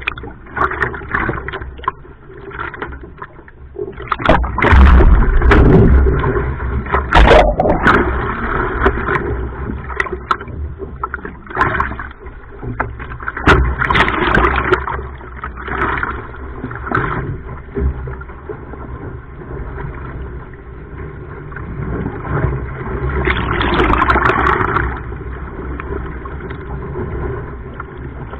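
Sea water sloshing and splashing around a surfski, with wind rumbling on the microphone. There are several louder surges through it, the strongest about five and seven seconds in and again near twenty-four seconds.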